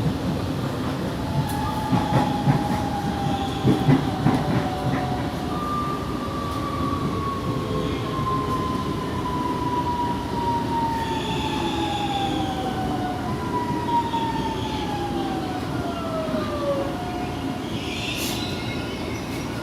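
Alstom series 8900 electric multiple unit heard from inside the car. The wheels click over rail joints for the first few seconds, then the traction motors' whine glides down in pitch as the train slows for the station. A short hiss comes near the end.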